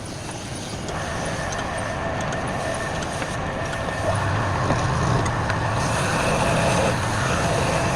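Wood lathe running, a steady mechanical noise with a low hum that grows louder about four seconds in.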